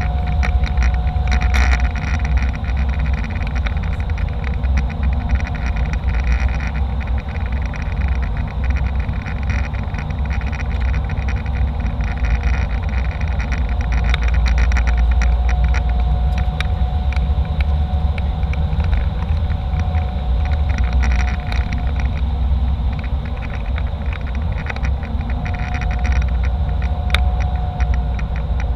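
Jet airliner cabin noise in flight: a steady deep rumble of engines and airflow with a constant mid-pitched tone, and frequent small clicks and rattles.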